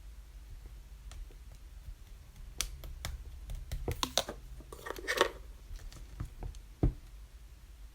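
Rainbow slime being handled and stretched: scattered sticky clicks and crackles that bunch up in the middle, with one sharp dull knock near the end.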